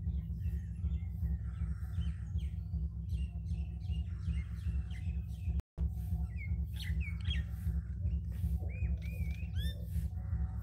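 Birds chirping and calling, short rising and falling calls that come mostly in the second half, over a steady low rumble of background noise.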